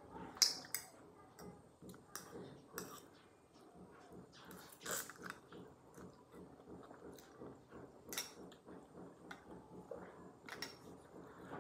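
Close-up chewing of spicy instant noodles, a soft, steady run of mouth sounds broken by a handful of short, sharp eating noises.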